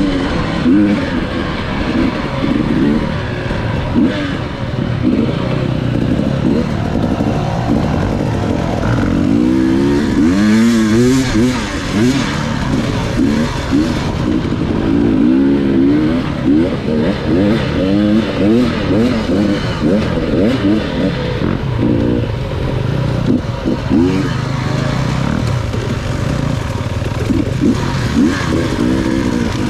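Enduro dirt-bike engine being ridden, its revs rising and falling again and again with throttle and gear changes.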